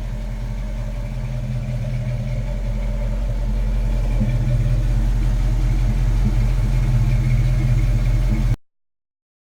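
1972 Chevrolet K10's 350 V8 running steadily through its dual exhaust at an even speed, growing gradually louder over the first few seconds. It cuts off abruptly near the end.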